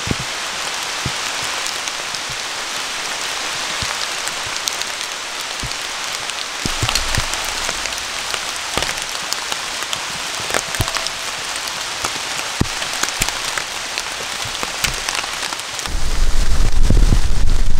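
Steady rain falling, with many separate drops hitting close by. Near the end a much louder low rumble cuts in suddenly.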